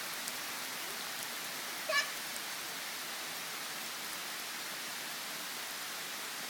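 Steady rain falling, an even hiss with no change in level. About two seconds in, one brief high-pitched sound, a short chirp or squeak, rises above it.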